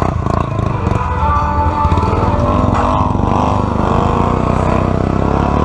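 ATV engine running under throttle, its pitch rising and falling.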